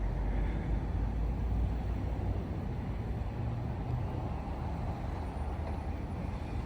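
Steady low vehicle rumble, even throughout with no horn or sharp sounds.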